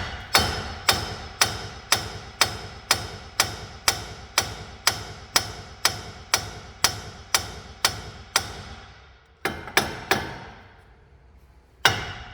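Sledgehammer blows on a steel steering knuckle, a steady run of about two strikes a second with a metallic ring, then a pause, two more strikes and another near the end. The blows are knocking the knuckle loose from the suspension's ball joint.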